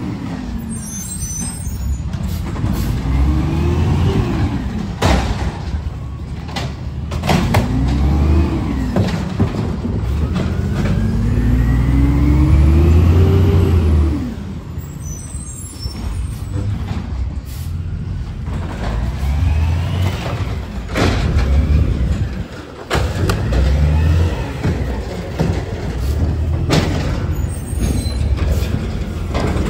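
Diesel garbage truck engine revving up and falling back again and again, as if working the lift. Several sharp knocks and bursts come in between.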